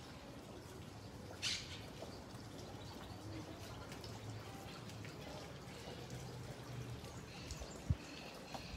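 Birds chirping faintly, with one brief louder call about a second and a half in, over a low steady background hum. A single low thump near the end.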